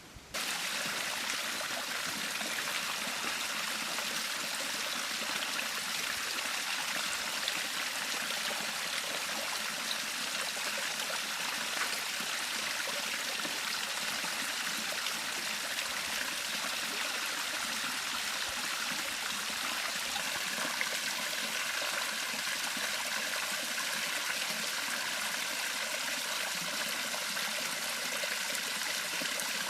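A river flowing with a steady rush of water, which starts suddenly just after the opening.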